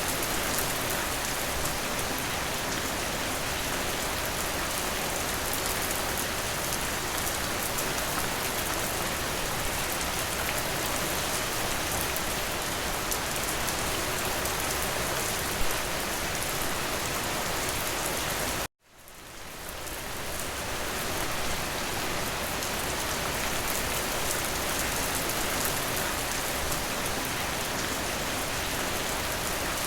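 Steady rain falling, an even hiss of drops. About two-thirds of the way through it cuts out for an instant and fades back in over a couple of seconds.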